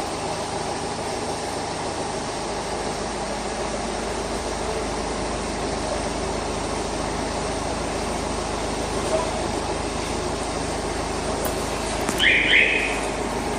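Car engine running steadily at idle, with a short double electronic chirp from the car alarm about twelve seconds in.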